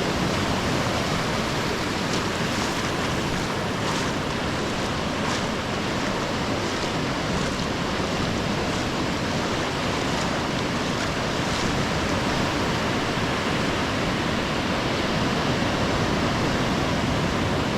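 Ocean surf breaking and washing up the sand in a steady, unbroken roar of water, with some wind.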